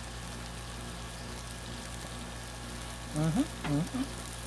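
Chili meat and peppers frying on a Blackstone flat-top griddle, a steady sizzle.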